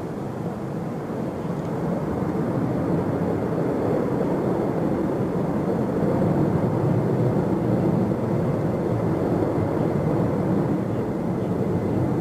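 Jet airliner's engines on takeoff: a steady rumble that grows a little louder over the first few seconds, then holds.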